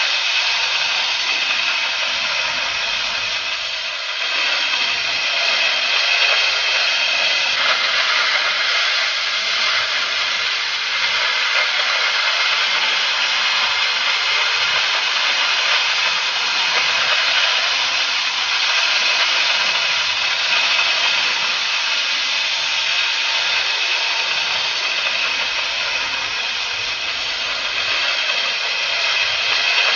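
Steady, loud hiss of the oxy-fuel torch on a Huawei HK12 track-type flame-cutting carriage, its gas jet burning as it cuts.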